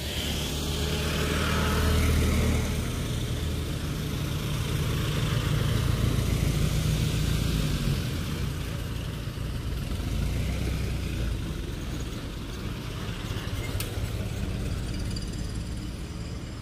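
Old Ford Model T cars driving past one after another, their four-cylinder engines running with a low hum. It swells as the cars pass, loudest in the first half, then eases off toward the end.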